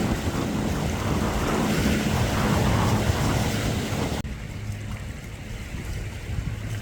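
Sailboat under way: wind buffeting the microphone and water rushing past the hull, over a steady low hum. About four seconds in, the rushing noise drops off abruptly and the sound grows quieter, leaving mostly the hum and softer water.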